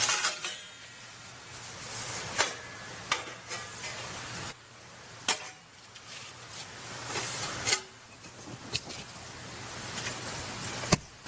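Batoning firewood: sharp, irregular knocks a few seconds apart as a knife is driven through a split of wood by striking its spine, with handling noise between strikes.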